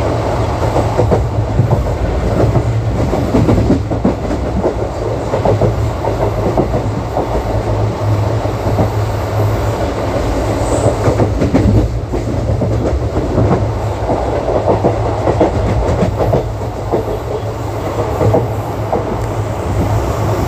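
Indian Railways ICF passenger coach running at speed: a steady rumble of wheels on track with frequent, irregular clacks over rail joints.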